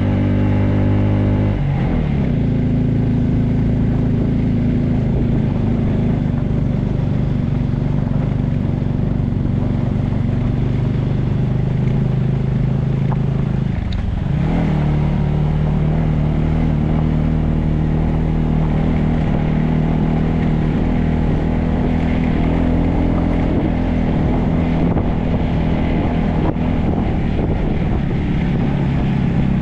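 Motorcycle engine running steadily under way, its pitch stepping down about two seconds in and dipping briefly before picking up again about halfway through.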